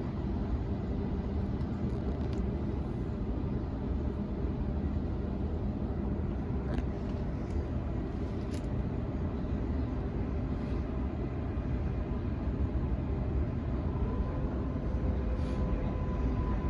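Cabin sound of a Sydney Trains Waratah electric train running between stations: a steady rumble of wheels on track, with a few faint clicks. About 14 seconds in, a steady electric whine comes in from the IGBT-VVVF traction equipment.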